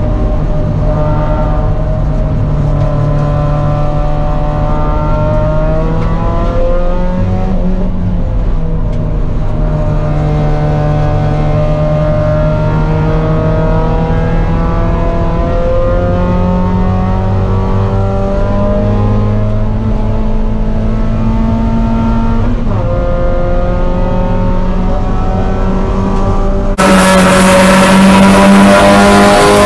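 Mazda Miata's four-cylinder engine heard inside the cabin at full throttle on track, the pitch climbing through the gears and dropping sharply twice, about 8 and 23 seconds in, as it is shifted up. Near the end the engine sound turns louder and brighter.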